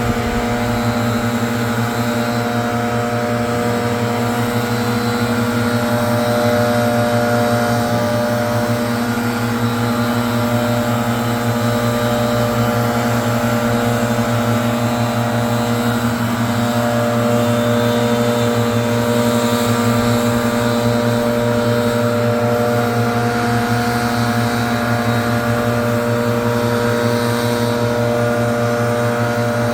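Gas-powered leaf blower engine running steadily at a constant speed, blowing air.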